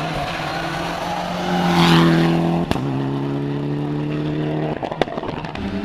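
Rally car at full throttle on a special stage, its engine note swelling loudest about two seconds in. A sharp crack comes as the note steps down in pitch, then it climbs steadily again. The engine note cuts off as the throttle is lifted, followed by another crack.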